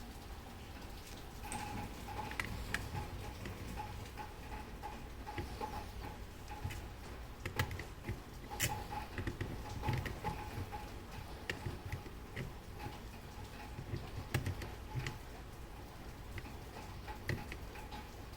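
Irregular light clicks and taps of small parts being handled, with no steady ticking rhythm.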